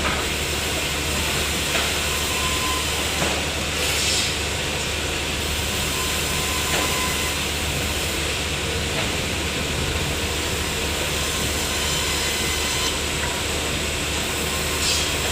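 Sawmill machinery running, a steady loud noise over a constant low hum.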